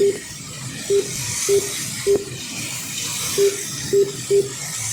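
A string of short, identical electronic beeps from the race timing system, about seven at uneven intervals, one for each lap as a truck crosses the timing line. They sound over the steady high whir of the HO slot-car trucks running on the track.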